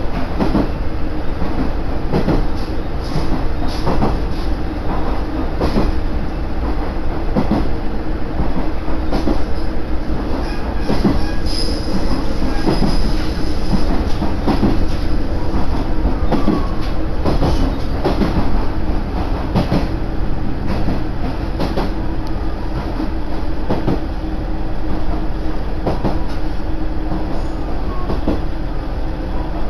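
Railcar running along the track, heard from inside the carriage: a steady rumble with irregular clacks of the wheels over the rail joints, and a brief high-pitched squeal about twelve seconds in.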